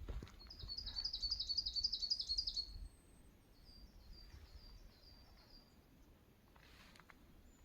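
A songbird singing a fast run of about a dozen high, down-slurred notes over two seconds, followed by a fainter run of the same notes a second later. Low wind rumble sits under the first run.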